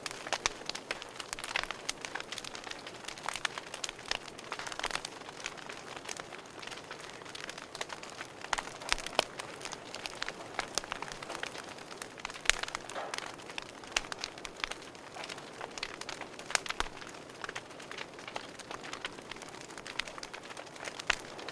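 Wood fire burning in a fireplace, with a steady soft hiss and frequent sharp, irregular crackles and pops of the burning logs.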